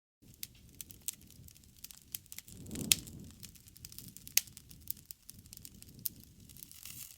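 Wood fire crackling: scattered snaps and pops over a low rumble of flame, with a louder swell and a sharp pop about three seconds in and another loud pop shortly after.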